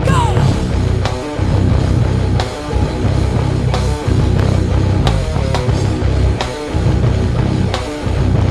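Live heavy metal band playing: distorted electric guitars, bass and drums on a heavy riff that breaks off briefly about every second and a half. A short falling squeal sits at the very start.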